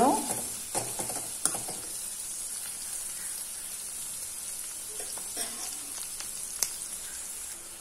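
Sliced shallots and curry leaves sizzling steadily in hot oil in a pan, being lightly sautéed. A few short knocks of the spatula on the pan come in the first two seconds and again around five to seven seconds in.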